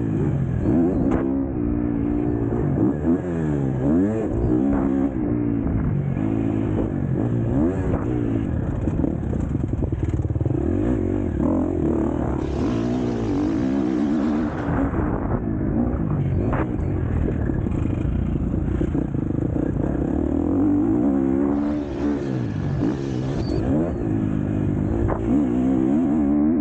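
A KTM 250 SX-F four-stroke motocross engine revving hard and falling away again and again, as the throttle is opened and chopped through the gears. Sharp clattering knocks come in here and there.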